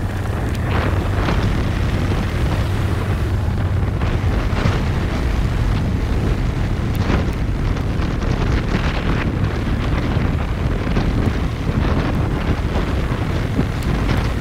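Wind buffeting the microphone over a steady low rumble, with scattered brief crackles.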